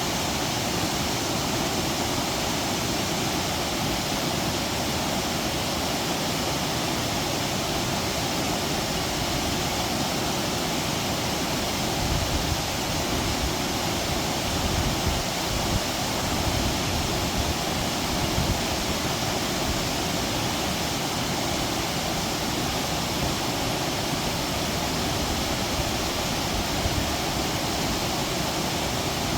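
Kagumo waterfall pouring over rocks: a steady, full rush of falling water. Louder low rumbles come and go around the middle.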